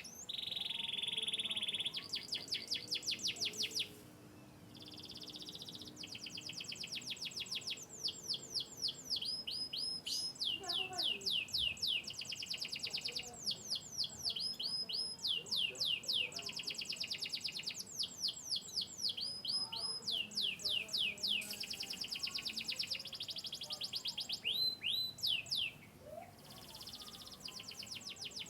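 Domestic canary singing a long song of rapid trills, fast runs of repeated high notes, many sweeping down in pitch, grouped in phrases with brief pauses.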